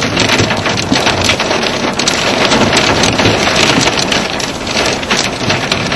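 Hail drumming on a car body, heard from inside the cabin: a dense, continuous clatter of many ice chunks striking the roof and glass.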